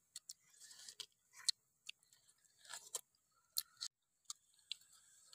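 People eating cooked chicken with their hands: quiet, irregular chewing and mouth sounds broken by short sharp clicks.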